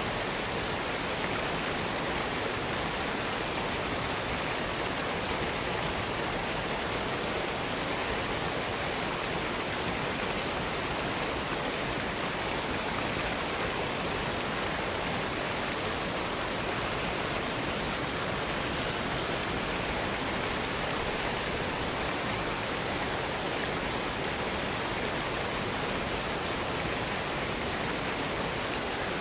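Waterfall: steady rushing of falling water, even and unbroken throughout.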